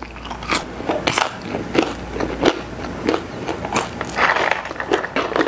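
Close-up chewing and biting of crispy seasoned curly fries, with irregular crisp crunches about two a second.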